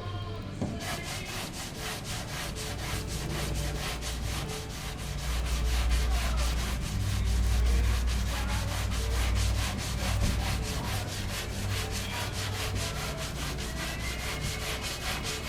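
80-grit sandpaper rubbed by hand over the steel bedside panel of a Ford F-150 in quick, even back-and-forth strokes, sanding the hammered dent area to check whether it is level.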